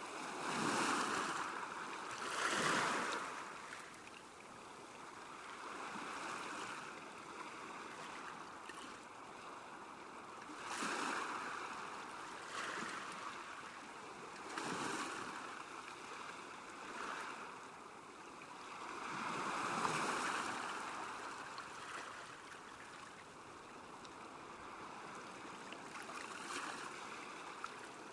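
Small waves washing against a lakeshore: a steady hiss of moving water that swells and fades irregularly every few seconds, with stronger surges near the start and about twenty seconds in.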